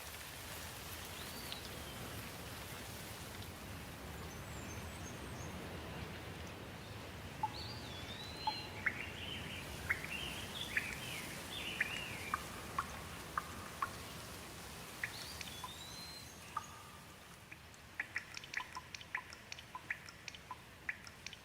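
Steady rain hiss with birds calling over it: slurred rising-and-falling whistles and quick chirps. Near the end comes a quick run of sharp ticks.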